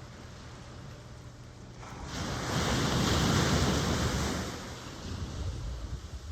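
Ocean wave breaking and washing in: a rush of surf that builds about two seconds in, peaks, and dies away over the next two seconds, over a steady low rumble of surf.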